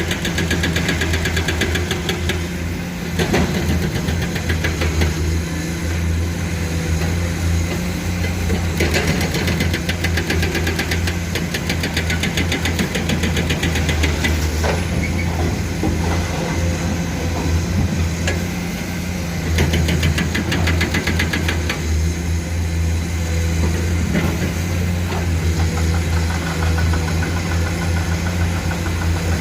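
Heavy excavator diesel engines running steadily, with the load rising and falling a few times. A fast ticking rattle comes and goes in stretches.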